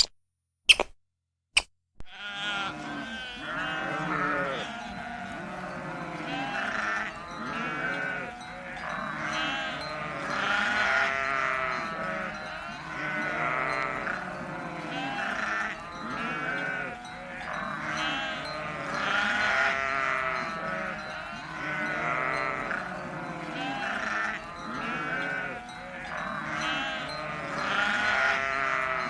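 A large flock bleating, many overlapping calls swelling and fading. It starts about two seconds in, after a few sharp clicks.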